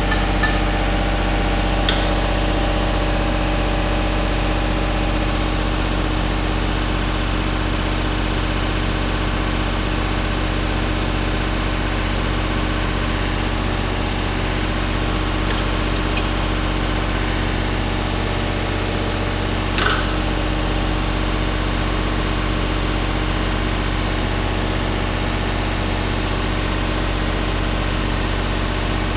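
A steady low machine hum that holds at one level, with a few faint clicks.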